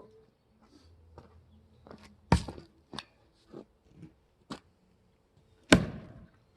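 Firewood being split by hand: two heavy blows on wood about three and a half seconds apart, the second trailing off briefly, with lighter wooden knocks between them.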